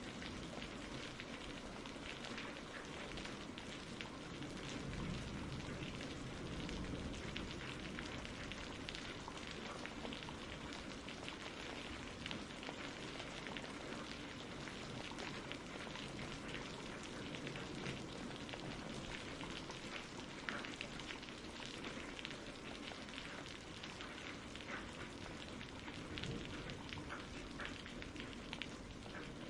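Steady rain: an even hiss with a dense patter of small drops.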